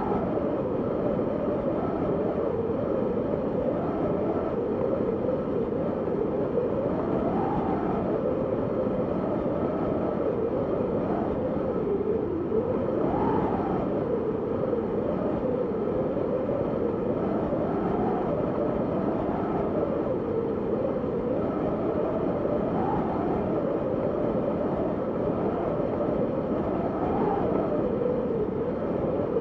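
Steady wind, a low rushing noise with a faint howl that swells and falls in pitch every few seconds.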